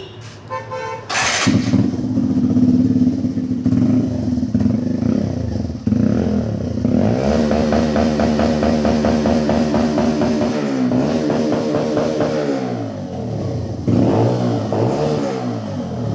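Motorcycle with a modified aftermarket silencer: the engine catches about a second in and idles, then is revved up and held high for several seconds before dropping back, with another short rev near the end.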